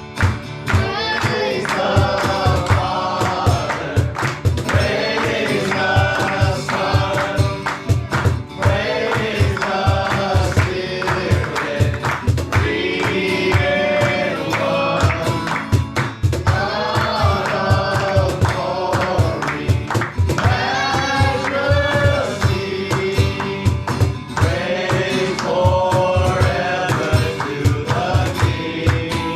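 Live worship music: a group of voices singing over a band, with a steady, quick drum beat.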